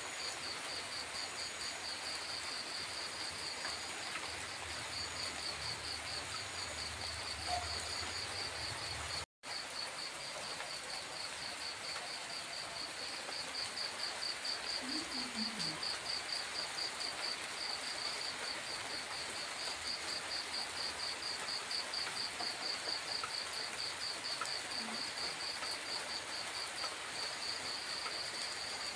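Steady patter of rain at night with crickets chirping in rapid, even pulses over it. The sound cuts out for an instant about nine seconds in.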